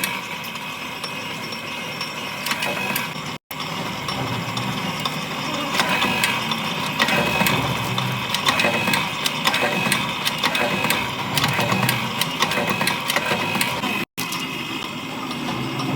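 Factory machinery running with a dense, rapid mechanical clatter of clicks over a steady hum, broken by two brief dropouts.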